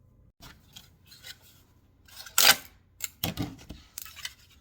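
3D-printed plastic print-in-place handle being turned by hand, giving a series of clicks and snaps, the loudest about two and a half seconds in, as its compliant detent snaps into the locked 90-degree position.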